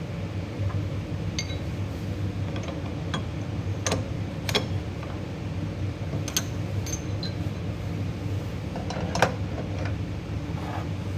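Scattered light metallic clinks and taps as piston, wrist pin and connecting rod are handled during pin fitting, some ringing briefly, with the sharpest about nine seconds in, over a steady low mechanical hum.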